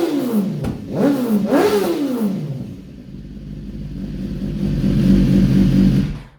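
BMW S1000RR inline-four sport bike running through an Arrow X-Kone slip-on exhaust with the catalytic converter removed. The throttle is blipped twice, each rev rising and falling back, and the engine then settles to a steady idle. The sound cuts off abruptly near the end.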